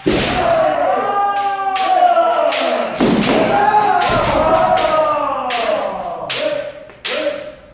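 Kendo sparring: long, drawn-out kiai shouts from several fencers overlapping, with repeated sharp cracks of bamboo shinai striking armour and stamping footwork.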